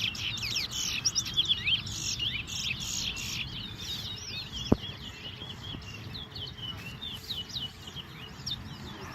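A caged twa-twa seed finch singing a long, rapid, twittering song of quick chirps, the kind of song that is counted in a finch singing race. A single sharp click sounds about halfway through.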